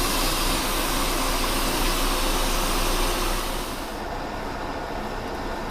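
Metal lathe turning a steel shaft at 385 RPM, a carbide insert taking a light finishing cut with coolant flowing: a steady running noise with a hiss. About two-thirds of the way through the hiss fades and the sound drops quieter.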